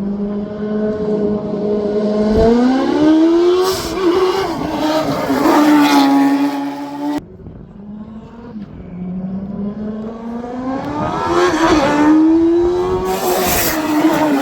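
Twin-engine Suzuki Hayabusa inline-four mini truck accelerating hard on nitrous, engine note climbing in pitch. There is an abrupt cut about seven seconds in, then a second hard run climbing again.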